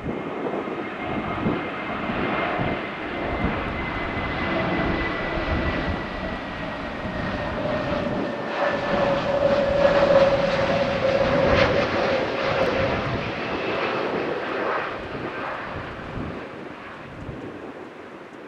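Airbus A321neo jet engines passing on landing approach. The sound grows to its loudest about halfway through and then fades, with a whine that slowly falls in pitch as the airliner goes by.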